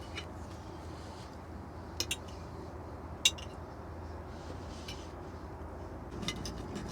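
A few sharp clinks of cutlery against dishes: two close together about two seconds in, the loudest a little past three seconds, and a few more near the end, over a steady low hum.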